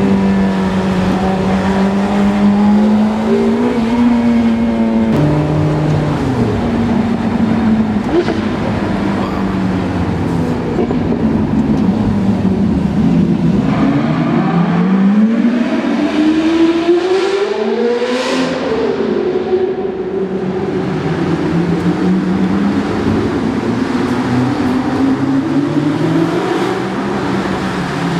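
Novitec-tuned supercar engine running loud under hard driving. The note holds, steps down in pitch about five seconds in, then climbs steadily to a peak a little past the middle and falls away again.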